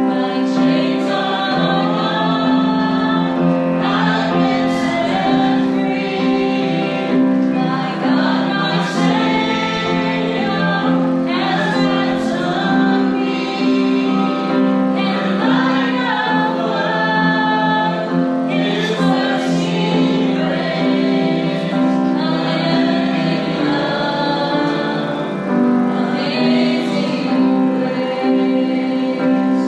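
Congregation singing a worship song together with piano accompaniment, sustained notes held under the voices.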